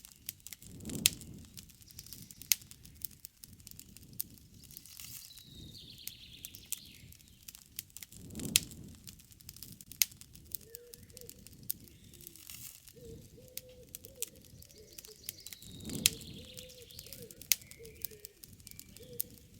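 Wood campfire crackling with frequent sharp pops, while birds call in the background.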